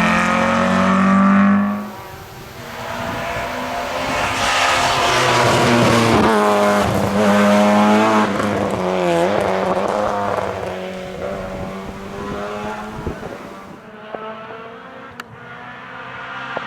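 Group F2000 rally car engines at full throttle. One car is loud and close, then drops away sharply about two seconds in. Another car then revs up and down through hard gear changes and braking as it passes, and fades over the last few seconds.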